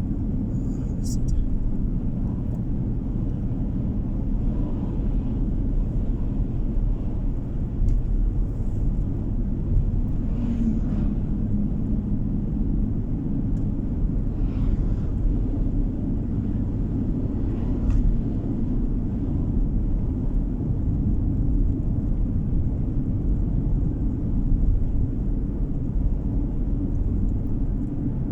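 Steady low rumble of a car driving along a road, tyre and engine noise heard from inside the cabin, with a faint click about a second in.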